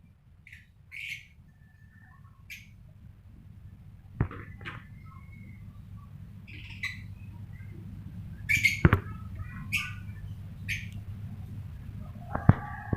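Lovebirds giving short, scattered chirps, with three sharp knocks among them and a low steady hum underneath.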